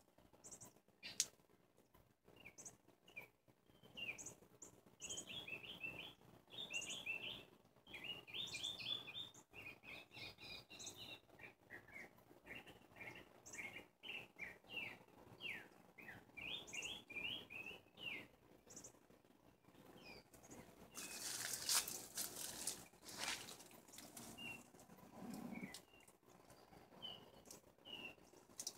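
Small birds chirping faintly, many short quick notes in rapid series, thinning out toward the end. A couple of brief rushing noise swells come a little past two-thirds of the way through.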